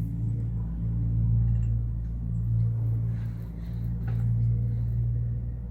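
A low, steady engine hum with a pitched drone, swelling and easing in loudness a few times.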